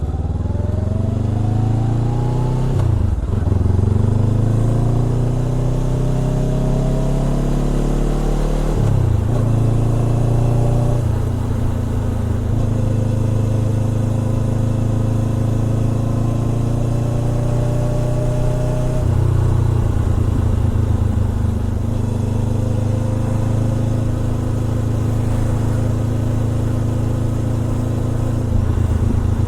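Honda CBR400R parallel-twin running through a Trick Star Ikazuchi aftermarket muffler, accelerating through the gears with rising revs and upshifts about three, nine and eleven seconds in. It then settles into a steady cruise at constant revs.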